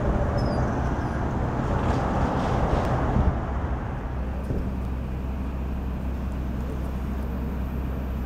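Rumble of an electric commuter train moving off from a railroad grade crossing, with wind noise on the microphone. About four seconds in it gives way to a steady low hum.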